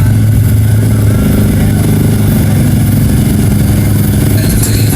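Mega truck's large engine running hard under load as it pulls through deep mud: a steady, deep engine drone.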